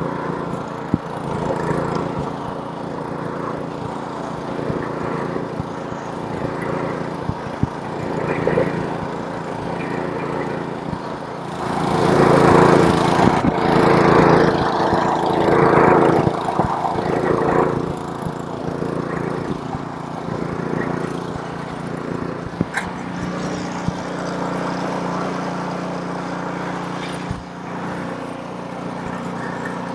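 Snowblower's small engine running steadily, with a louder, noisier stretch in the middle lasting about five seconds.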